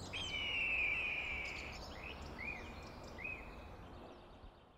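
Bird calls over an outdoor ambience: one long call, then two short arched chirps, with the background fading out near the end.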